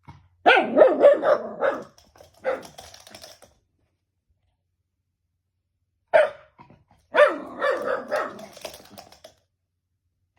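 Shiba Inu barking at something unseen, in clusters of quick barks: a run of several just after the start, a single bark, a few seconds of quiet, then another bark and a longer run.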